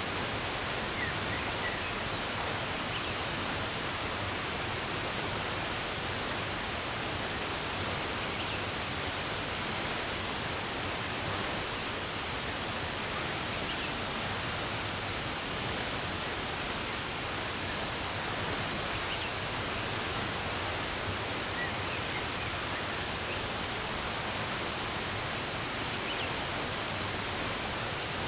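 Steady rushing of running water, with occasional faint short bird chirps scattered over it.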